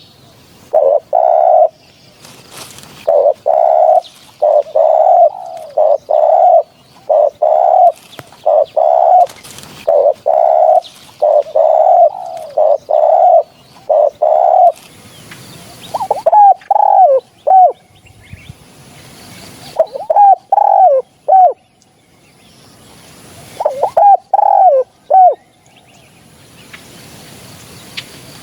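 Spotted dove cooing over and over: a quick run of low coos through the first half, then three shorter phrases with bending pitch a few seconds apart, and quieter near the end.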